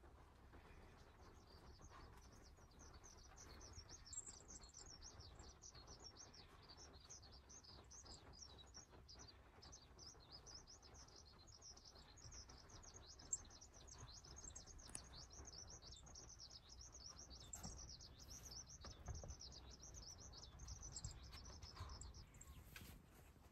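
Faint, continuous high-pitched chirping of small birds, starting about a second in and stopping shortly before the end, over a low steady rumble.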